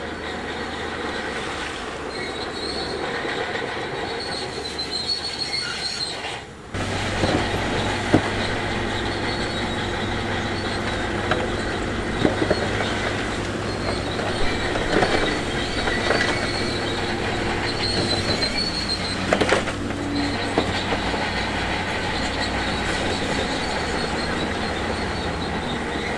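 Shantui DH17C2 crawler bulldozer at work: its engine runs steadily while the steel tracks squeal and clank, with a few sharp knocks scattered through. The sound changes abruptly about seven seconds in, with a steadier low engine hum from then on.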